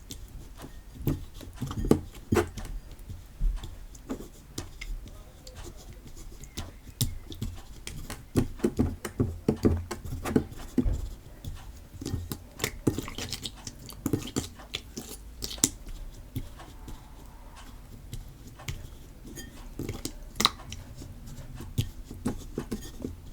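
Homemade PVA-glue slime being mixed and squeezed with activator: irregular sticky squelches and small clicks, with a few sharper knocks. The mix is one she thinks is too thick and still short of activator.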